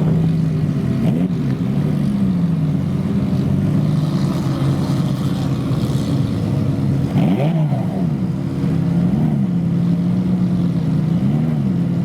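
Supercar engine idling with a steady note, blipped by short throttle revs: small ones about a second in and again around nine and eleven seconds, and a bigger, higher rev about seven seconds in.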